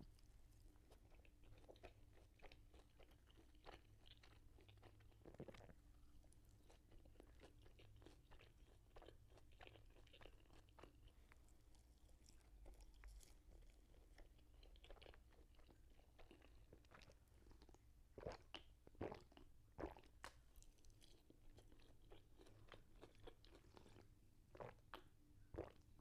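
Faint crunching and chewing of nachos, tortilla chips being bitten and chewed, with a few louder crunches about three quarters of the way in.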